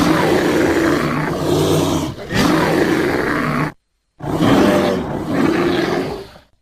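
Bear roars, one long roar with a short break partway through, then after a brief silence a second, shorter roar that fades out.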